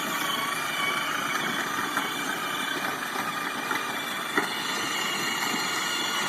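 A car running steadily, with a faint whine over it and a single sharp click a little over four seconds in.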